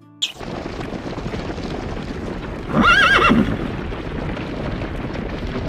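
A horse whinnying once, a loud, wavering call about three seconds in, over steady background noise.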